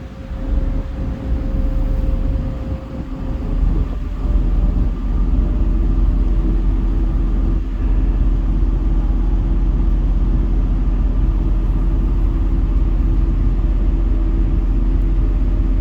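Passenger ferry's engines running with a steady low rumble, getting louder about four seconds in as a steady engine tone comes in.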